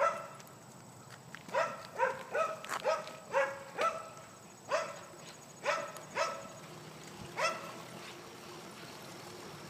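A small dog barking in short, high-pitched yaps, about a dozen in irregular runs, stopping about seven and a half seconds in.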